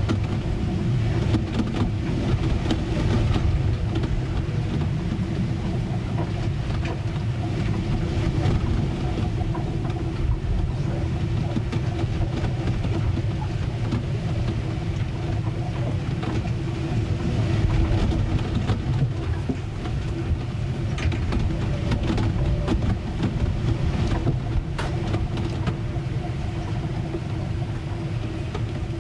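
Storm ambience aboard a ship: a constant low rumble of wind and water against the hull, with a steady hum underneath and scattered knocks and creaks.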